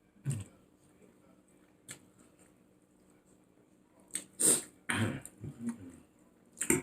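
A person eating close to the microphone: scattered short mouth sounds of chewing and slurping, busiest from about four seconds in.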